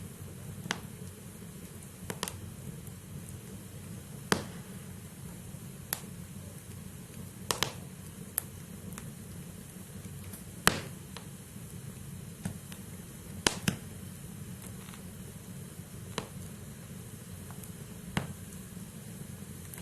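Wood fire burning in a fireplace: a steady low rush of flame with irregular sharp crackles and pops from the burning logs, about a dozen of them, the loudest about halfway through.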